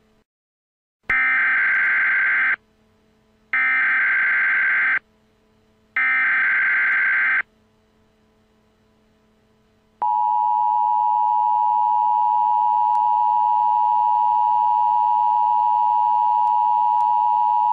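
Emergency Alert System tones. First come three bursts of SAME header data, a harsh digital screech about a second and a half long each, spaced about a second apart. Then, about nine seconds in, the steady two-tone EAS attention signal starts and holds to the end.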